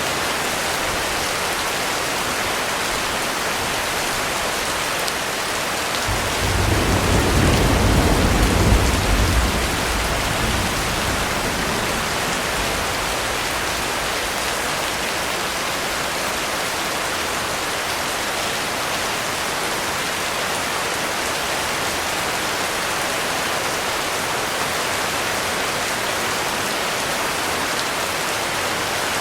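Heavy rain falling steadily. About six seconds in, thunder rolls in as a deep rumble that swells and fades over about five seconds.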